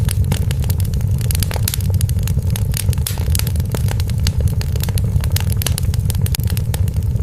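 Wood fire crackling in a fireplace, with many sharp, irregular pops and snaps over a steady low rumble of the flames.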